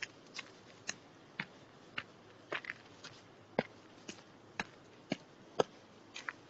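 Footsteps on a forest path, a short crunch about twice a second at a steady walking pace.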